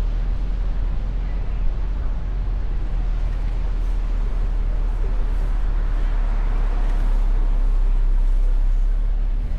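Driving noise from an open-top convertible: a steady rumble of wind on the microphone mixed with road and traffic noise, growing a little louder in the second half.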